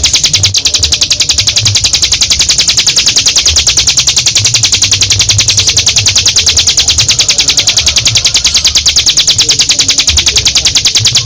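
Ciblek gunung (hill prinia) singing its long 'ngebren' song: an unbroken, rapid, high-pitched trill of evenly repeated notes held without a pause.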